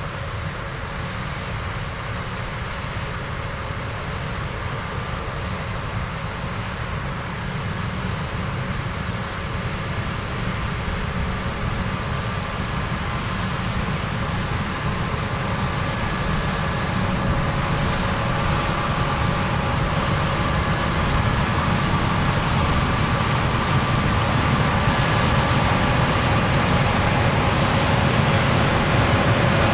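Diesel engine of a large farm machine running steadily in the field, growing gradually louder as it comes closer.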